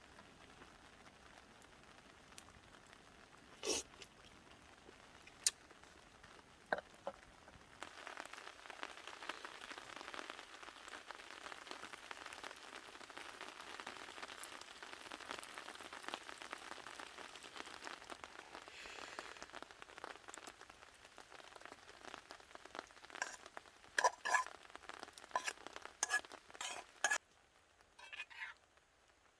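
Food sizzling and crackling in a pan, starting a few seconds in and stopping suddenly near the end. A few knocks come before it, and a run of sharp metal clinks, like a utensil against the pan, comes just before it stops.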